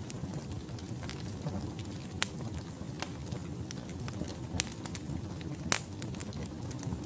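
Wood logs burning in a fireplace: a steady low rumble of flames with scattered crackles and a few sharp pops, the loudest near the end.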